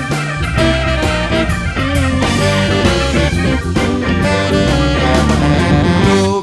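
Live soul band playing an instrumental passage, with electric guitar over bass and drum kit.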